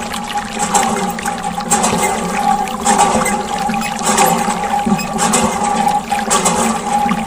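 Water splashing and trickling continuously from a small homemade toy water pump, over a steady hum.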